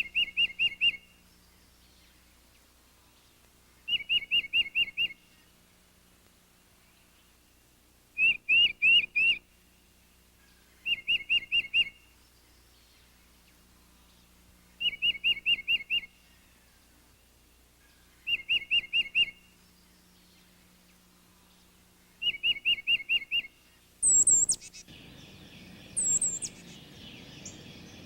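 A songbird singing the same short phrase over and over, each a quick run of five or six whistled notes, repeated about every four seconds. Near the end a second, higher-pitched bird calls twice.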